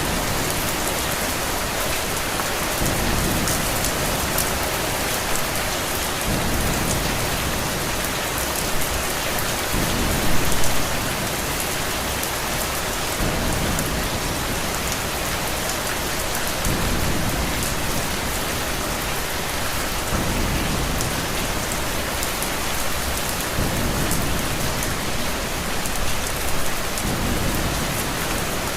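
Steady heavy rain falling, with fine sharp ticks of drops and low thunder rumbling that swells and fades every few seconds. There is a brief louder surge about ten seconds in.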